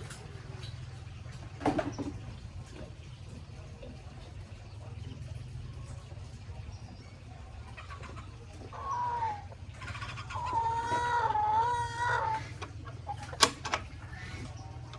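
A chicken calling: a short falling call, then a longer wavering call of about two seconds, over a steady low hum. A sharp knock comes about two seconds in and another near the end.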